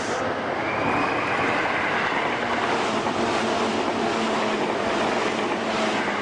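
Commuter train noise at a station platform: a steady rush of noise with a faint high whine, swelling about a second in and holding.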